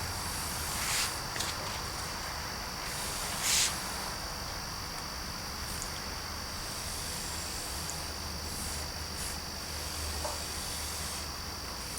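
A few brief rustles and scrapes of small handling as craft-stick pieces are glued onto a model bridge, the loudest about three and a half seconds in, over a steady high-pitched whine and hiss.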